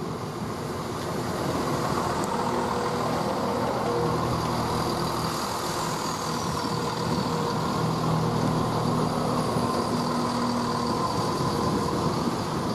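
A train running at a station platform with a steady mechanical hum of several held tones over a rushing noise. It gets louder about a second and a half in.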